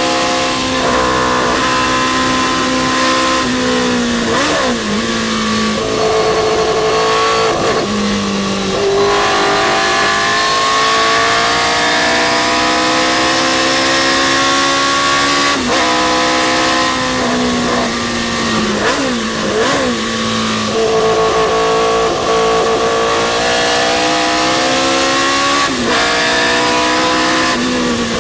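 Historic sports racing car engine at race pace, climbing in pitch up through the rev range and dropping sharply at gear changes, with throttle blips on downshifts several times.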